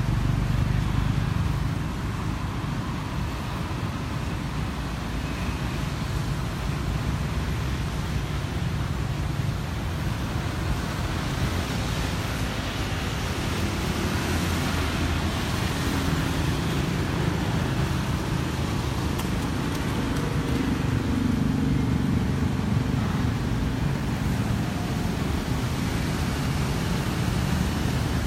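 Cars running in street traffic: a steady low engine rumble, with an engine note growing louder in the middle.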